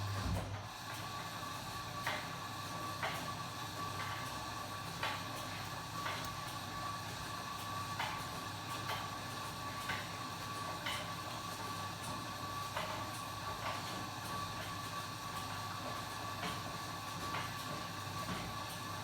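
Kenwood washing machine running: a low hum cuts off with a thump right at the start, then a steady motor whine continues with light knocks about once a second as the drum turns.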